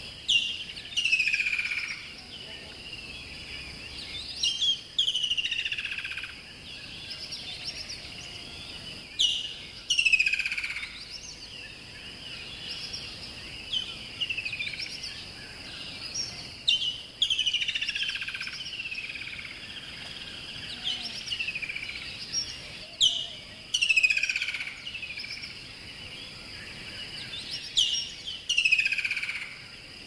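Birdsong: clusters of chirping calls that sweep down in pitch, coming every few seconds over a steady high-pitched background.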